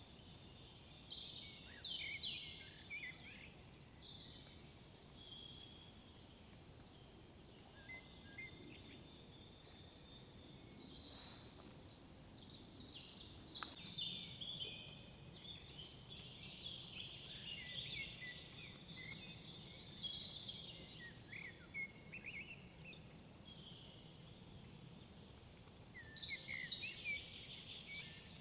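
Several songbirds singing and calling in woodland: overlapping chirps, trills and whistles, loudest about two seconds in, in the middle and near the end, over a faint low background rumble.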